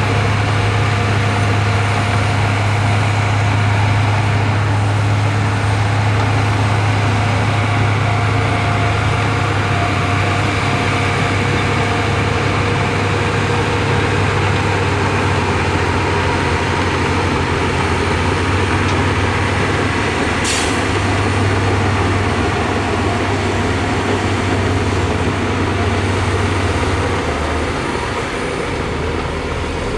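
Heavy diesel engine of construction machinery running steadily at a deep, even pitch, with a short sharp hiss of air about two-thirds of the way through. The engine note drops away near the end.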